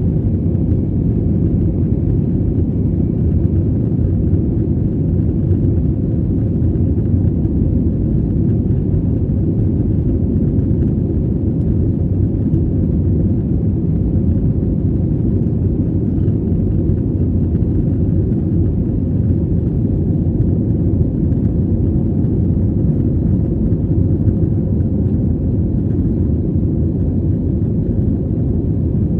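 Airliner cabin noise during takeoff: a steady, loud low rumble of jet engines and rushing air.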